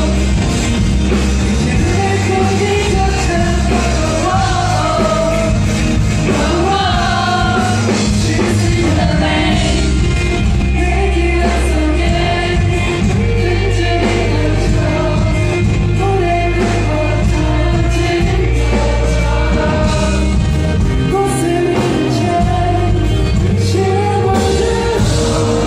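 Live rock band playing with a male lead vocal, heard loud and continuous through a concert recording, a steady bass line under the sung melody.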